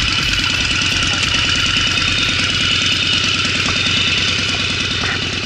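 Motorcycle engine idling steadily, its level starting to fade near the end.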